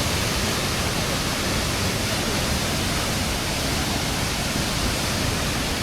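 Waterfall roaring close by: a steady, dense rush of falling water with no letup.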